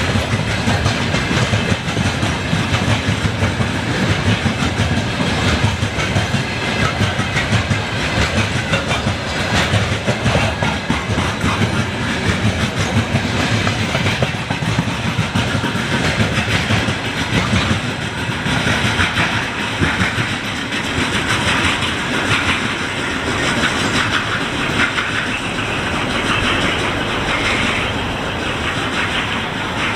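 Wheels of a passing freight train's wagons knocking steadily over the rail joints: the rhythmic clickety-clack of a loaded train rolling through a station at speed.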